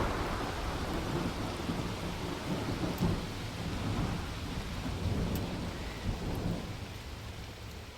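Rain falling, with a low roll of thunder that slowly fades away.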